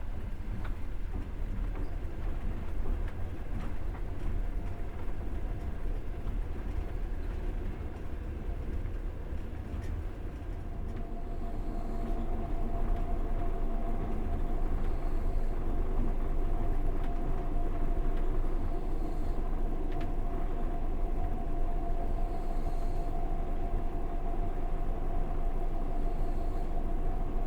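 Passenger train running on the rails, heard from aboard: a steady rumble of wheels and carriage, growing louder about halfway through, when a steady whine also comes in and holds.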